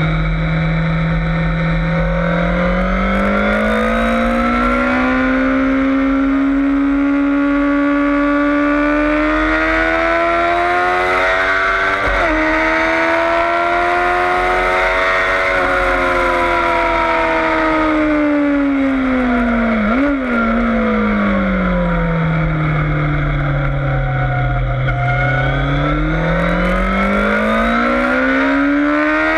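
Yamaha FZS600 Fazer's inline-four engine under hard acceleration on track. The revs climb steadily for the first half with a short hitch near the middle, like a gear change, then fall steeply with a quick blip, a downshift, sink low, and climb again near the end. A constant low wind rush runs underneath.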